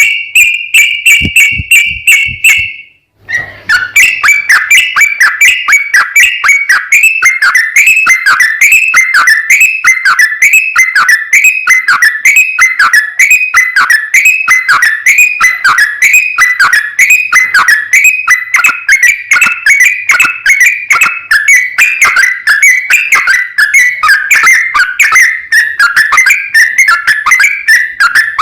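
Yellow-vented bulbul (trucukan) song in its long 'ropel' run: a buzzy, rapidly pulsed held note for about three seconds, a brief break, then a fast string of whistled notes, about two a second, each sliding down in pitch.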